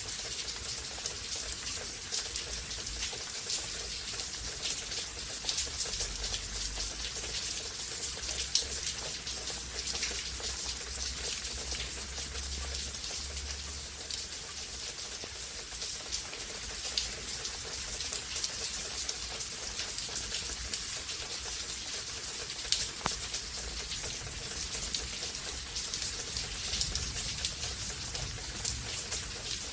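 Steady rain falling, with a dense patter of individual drops hitting surfaces.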